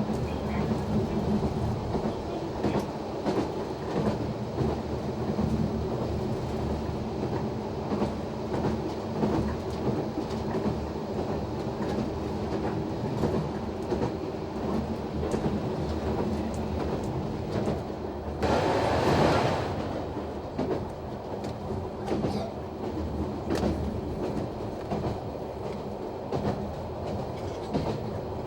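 Noto Railway NT100 diesel railcar running along the line, heard from the driver's cab: steady engine and running noise with the clickety-clack of wheels over rail joints. About two-thirds of the way through, a brief loud rushing noise swells and fades over a second or two.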